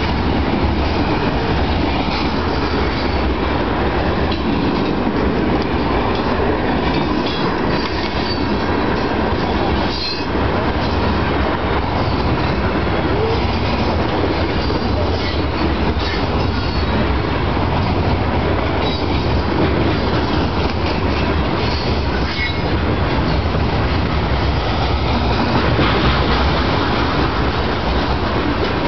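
CSX freight train of hopper cars rolling past close by: a steady, loud rumble and clatter of steel wheels on the rails, with brief high wheel squeals here and there.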